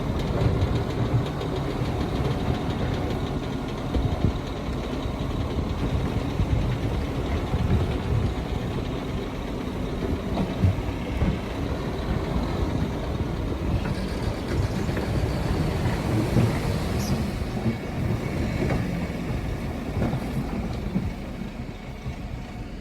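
Heavy earthmoving machinery at work: a large diesel engine with a steady low rumble, broken by irregular knocks and rattles.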